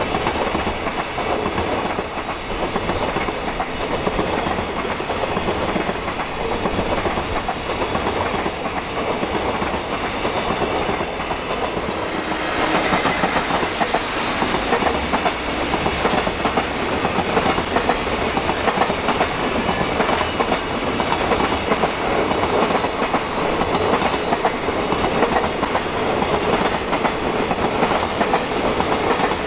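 Long freight train of container flatcars rolling past, its wheels clattering steadily over the rail joints. About twelve seconds in, the sound grows louder and brighter as a container train headed by an EF65 electric locomotive passes closer by.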